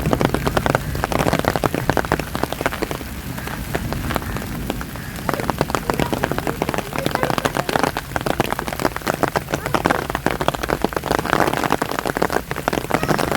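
Heavy rain falling, with dense drops striking close by in quick, irregular sharp taps. The drops thin out and the level dips slightly about three to five seconds in.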